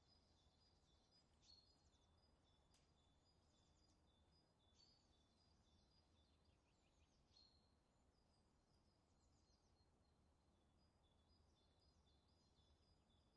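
Near silence with faint birdsong: rapid, high, short chirps repeating throughout, broken by a few downward-sliding calls.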